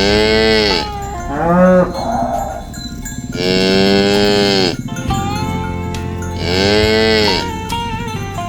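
Cows mooing: three long moos a few seconds apart, with a shorter call between the first two.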